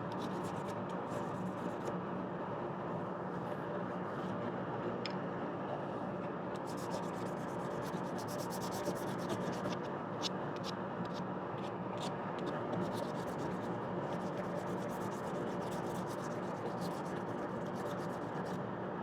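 Hand sanding a hickory spatula with 320-grit sandpaper along the grain: soft scratchy rubbing strokes that come and go, over a steady low hum.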